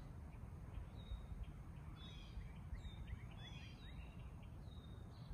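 Outdoor ambience: birds chirping in short runs of quick high notes, several times over, above a steady low background rumble.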